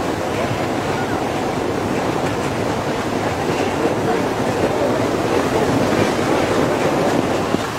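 Diesel locomotive hauling passenger coaches across a steel railway bridge: a steady running noise of the engine and the wheels on the rails.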